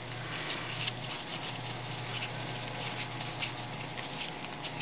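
Trading cards being handled and slid against one another, making light rustles and small scattered clicks over a low steady hum.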